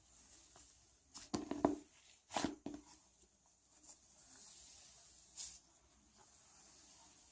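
Cloud slime being squished and pulled by hand: faint soft crackling and squishing, with a few louder crackly squeezes about a second in, near two and a half seconds and again past five seconds.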